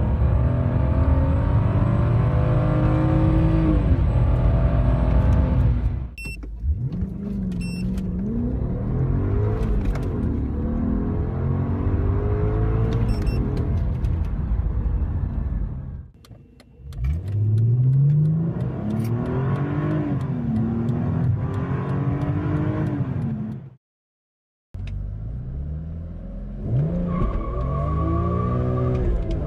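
Car engines accelerating hard in successive acceleration runs: the engine pitch climbs through each gear and drops at the shifts. A cut to a fresh run a little over three-quarters of the way through, and a short steady beep near the end.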